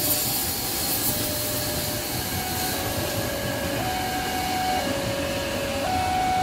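KRL electric commuter train running past with a steady rush of wheels and motors, while a level-crossing warning alarm sounds two alternating tones, switching about once a second and growing clearer partway through.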